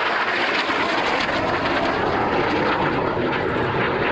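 Aircraft engine noise from a plane in flight, steady and loud.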